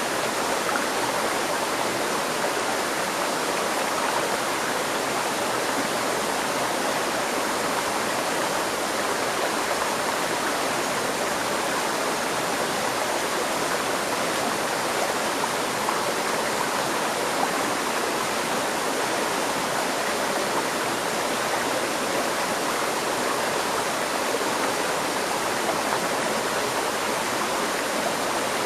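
A river stream flowing steadily, an even, continuous rush of water.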